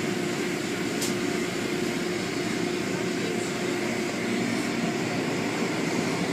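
Car wash machinery running steadily: a constant hum under a loud, even hiss, with a faint tick about a second in.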